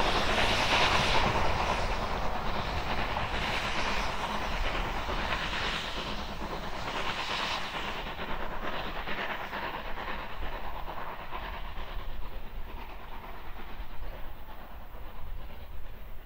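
Heritage railway train running past with its wheels clattering over the rail joints, the sound fading steadily as it moves away.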